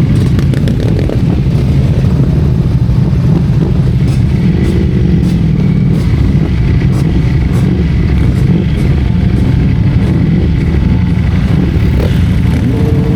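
Motorcycle running steadily on the move: a loud, dense low rumble that holds even, with no revving up or down.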